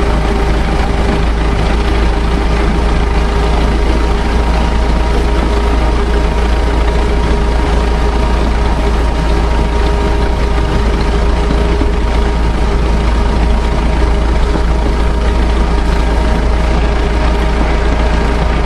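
Narrow-gauge train running along the line, heard from a carriage window: a steady locomotive engine drone with a few held tones over a heavy, even low rumble.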